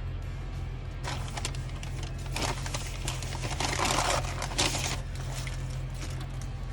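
Paper food wrapper crinkling and rustling as it is handled. It comes in bursts for about four seconds, starting a second in, over a steady low hum.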